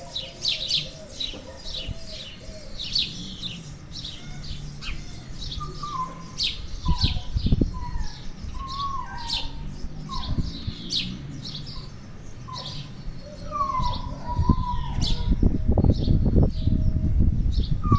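Small birds chirping and twittering in quick, high notes, with one bird repeating a short drooping call about once a second. A low rumbling noise rises and becomes loudest over the last few seconds.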